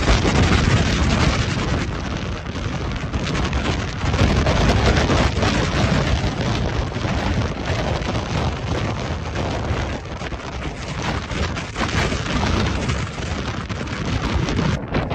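Gale-force mountain wind buffeting the microphone, a dense low rumble that surges and eases in gusts.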